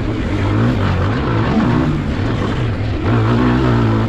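Pit bike engine running hard under the rider, its note rising and falling with the throttle, dipping a few times and holding steadier near the end.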